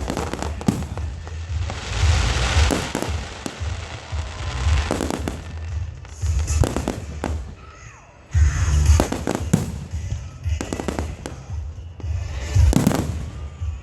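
Aerial fireworks going off in quick succession, sharp bangs followed by crackling, with music playing underneath that has a heavy bass. There is a short lull a little past halfway.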